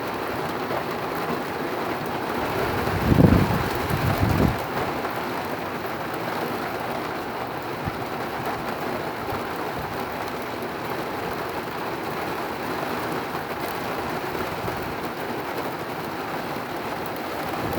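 Heavy rain falling steadily, with a short low rumble of thunder about three seconds in.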